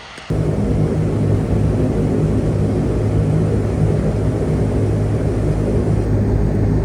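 Dash 8 turboprop's engines and propellers running with a loud, steady drone and a strong low hum, cutting in abruptly at the start.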